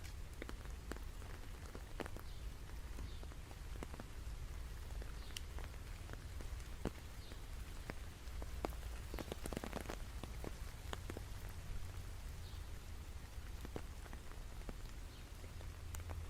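Steady rain with scattered individual drops striking a surface sharply, over a low rumble.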